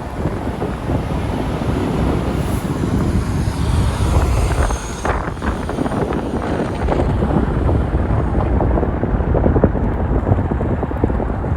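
Vehicle engine and road rumble, steady and loud, with wind buffeting the microphone.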